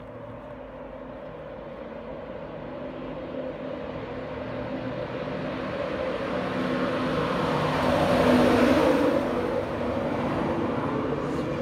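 LNER express passenger train running into the station platform to stop. Its rumble builds steadily as it approaches and is loudest about eight seconds in as the coaches pass close by, then eases a little.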